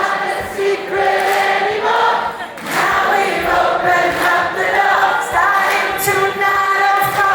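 Concert audience singing a melody together in a massed, choir-like chorus of many voices, with little heard from the band.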